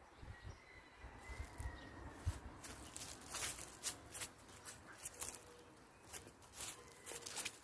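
Birds calling in many short, sharp notes, thickest in the second half, with a few low thumps of footsteps or handling in the first two seconds.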